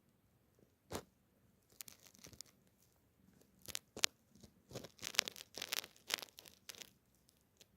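Scratchy rasping and rustling from a cat at close range, in short irregular bursts.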